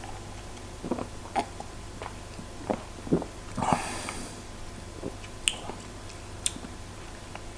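A person tasting beer: small mouth clicks, lip smacks and swallows, with one short slurping sip a little past halfway.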